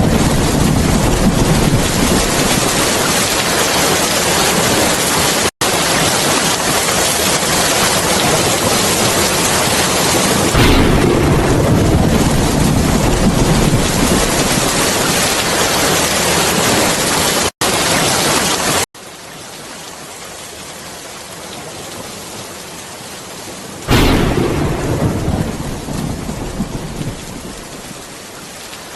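Heavy rain pouring in a thunderstorm, with rolling thunder that swells and fades twice. About two-thirds through, the rain suddenly becomes quieter, and another peal of thunder rolls in and dies away near the end.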